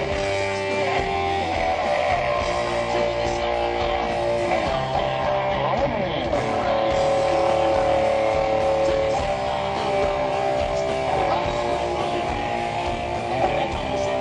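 Live hard rock band playing an instrumental stretch without vocals: electric guitar holding sustained notes over bass and drums, with a bent note about six seconds in.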